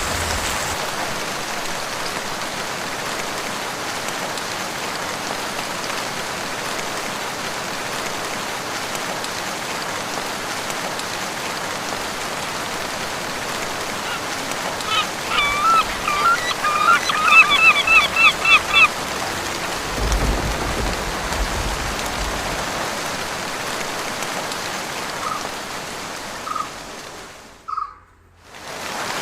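Steady heavy rain falling in a forest. About halfway through, a bird calls in a quick run of repeated notes lasting a few seconds, and a brief low rumble follows. Near the end the rain cuts out for about a second.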